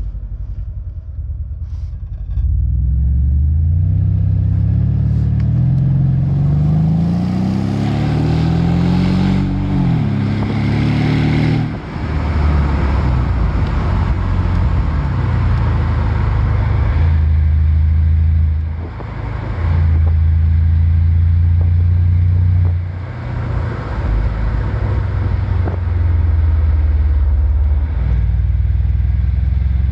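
Mercedes CLS 500's twin-turbo V8 through a 76 mm cat-back sport exhaust. The revs climb steadily for about ten seconds, then drop sharply. After that comes a steady deep drone that dips briefly twice.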